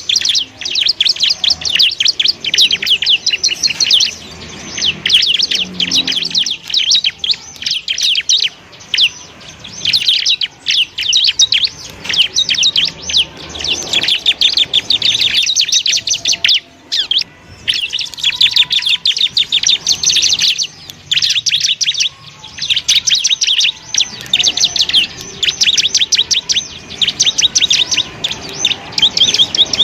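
Bar-winged prinia (ciblek) singing: a fast, dense run of high, trilled notes in phrases a few seconds long, broken by brief pauses.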